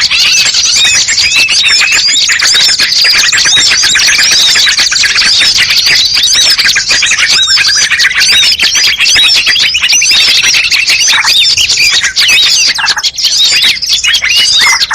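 A dense chorus of many small songbirds chirping and calling at once, loud and unbroken: a layered bird-lure (pikat) recording mixing several species' calls to draw wild birds in. About halfway through, a longer rising-then-falling call sounds over the chatter.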